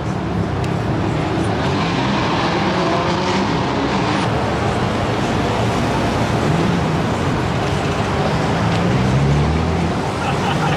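Several cars' engines and exhausts running as the cars drive off, their engine notes rising and falling over steady road noise.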